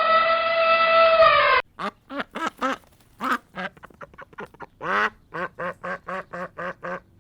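Ducks quacking in a long run of short calls, closing up to about four a second toward the end. The run follows a held, even-pitched call that cuts off abruptly about one and a half seconds in.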